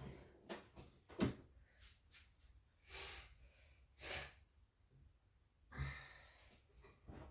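Quiet workshop handling sounds: a sharp knock about a second in, two short scraping swishes a second apart, and a dull thump near the end, among lighter scattered knocks.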